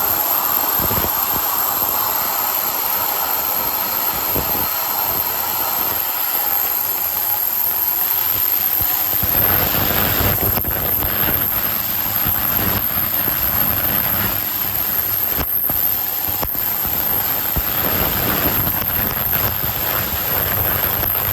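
Glass-bottle washing machine running: a steady mechanical hiss and whir, with a heavier low rumble joining about nine seconds in.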